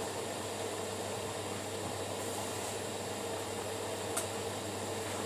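Two front-loading washing machines running their main wash: a steady mechanical hum and wash noise, with a faint click about four seconds in.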